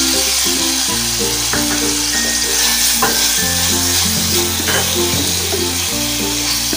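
Sliced onion and tomato sizzling in hot ghee in a nonstick frying pan, with a few scrapes of a wooden spatula stirring them. Background music of held low notes plays under it.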